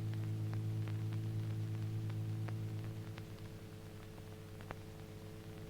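A steady low hum with faint scattered clicks, dying down about three seconds in.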